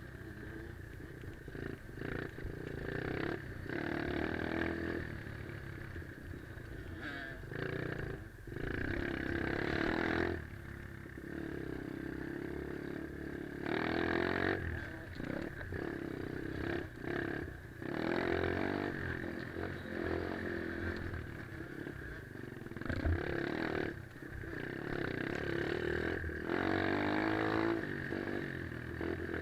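Pit bike engine revving up and dropping off again and again as the bike is ridden around a dirt track, surging every few seconds.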